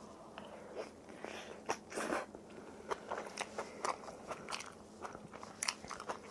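A person chewing crunchy spicy napa-cabbage kimchi close to the microphone: quiet, irregular crisp crunches, a few each second.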